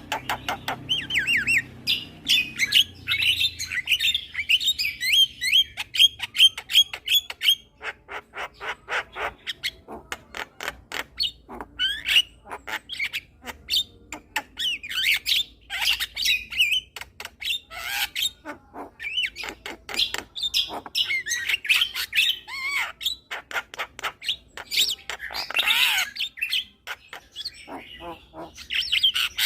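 Javan myna (jalak kebo) singing: long runs of rapid, sharp clicks and chatter mixed with spells of squeaky whistled notes.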